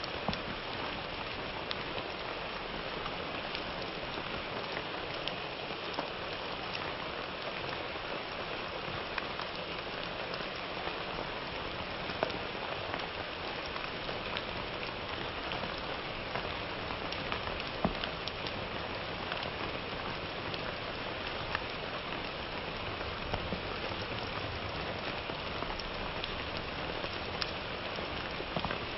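Steady summer rain falling on a surface, an even patter with scattered sharper drips and a few louder single drops.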